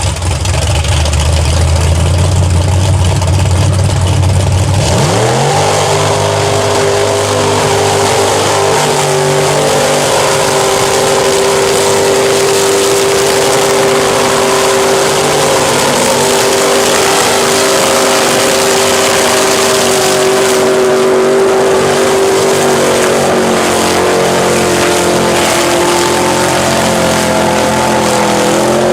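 Mud truck engine revving hard during a run through a mud pit: a low rumble, then about five seconds in the revs climb sharply and are held high and nearly steady.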